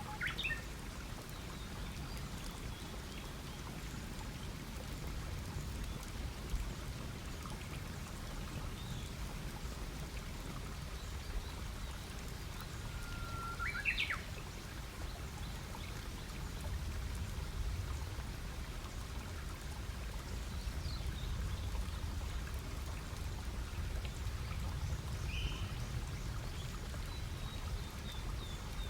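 Wood campfire burning with a steady soft rush and light crackle. A few brief bird calls sound over it: one just at the start, a rising call about halfway through, and a short note near the end.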